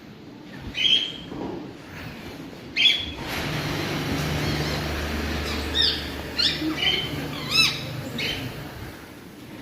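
Captive birds calling: two loud, sharp squawks about a second and three seconds in, then a quick run of chirps and squawks in the last few seconds. Under the middle of it runs a steady low hum that starts and stops.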